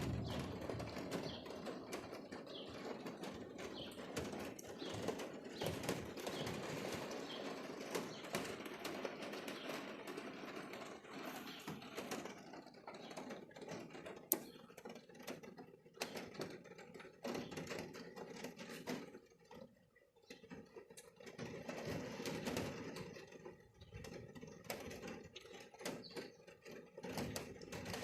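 Rain dripping and pattering on hard surfaces: a dense scatter of small, irregular ticks that thins out for a moment about two-thirds of the way through.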